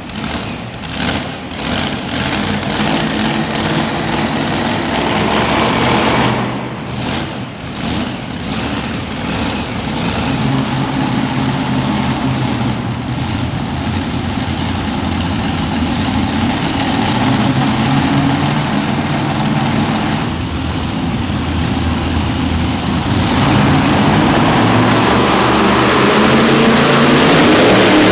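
Super modified two-wheel-drive pulling truck's engine revving in a series of short blips, then running steadily and growing louder near the end.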